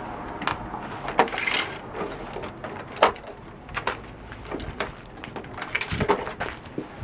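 Plastic parts of an upright vacuum cleaner being handled: irregular clicks and knocks with a short scrape about one and a half seconds in and a sharper knock about three seconds in, as the dust canister is worked on.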